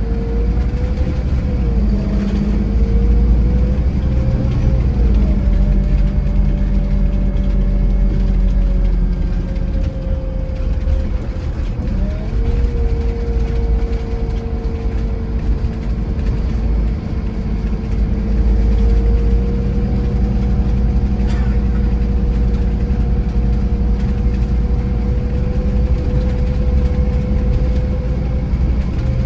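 Scania Irizar i4 coach running on the road, a steady heavy low rumble with a drivetrain whine. The whine's pitch dips and recovers a few times in the first twelve seconds, then holds steady.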